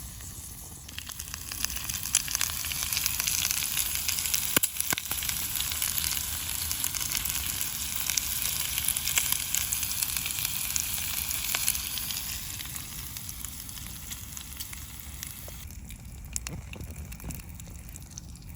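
Steady sizzling and crackling with many small pops over a wood campfire. It swells about a second in and fades near the end.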